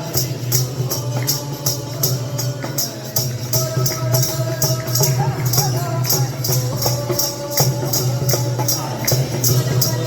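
Bhajan music: voices singing over a steady drone, kept in time by shaken jingling percussion at about three to four strokes a second.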